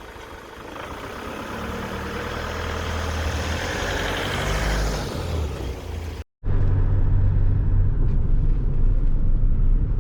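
Vehicle engine running and growing louder over several seconds. After a sudden break it gives way to a steady low engine and road rumble as the vehicle drives.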